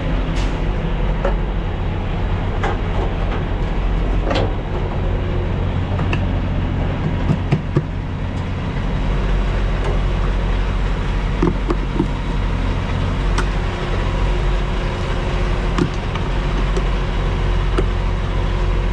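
Semi-truck's diesel engine running steadily at low speed, with scattered light clicks and knocks throughout.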